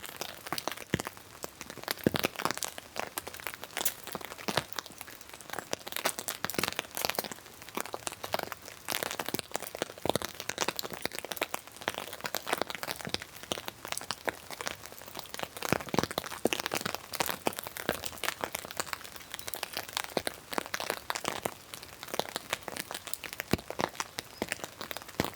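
Wood fire crackling and popping in a small firebox, a steady stream of irregular sharp snaps.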